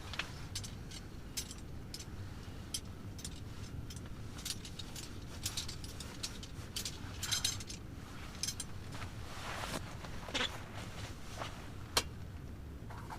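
Irregular light clicks, clinks and knocks, a few a second, with one sharper click near the end, over a steady low rumble.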